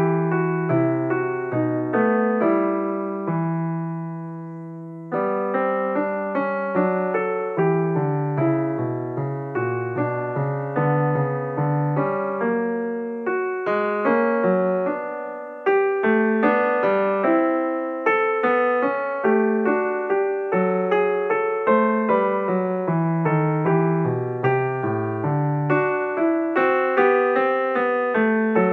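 Background piano music: a solo piano playing steady notes and chords, with a held chord dying away about four seconds in before the playing resumes.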